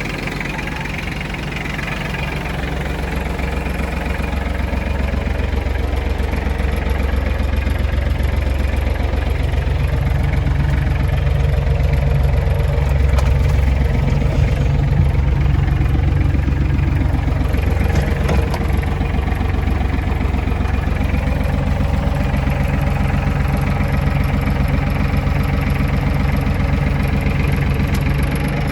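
Iseki TF330's three-cylinder 1.5 L diesel engine running steadily, growing somewhat louder about a third of the way in.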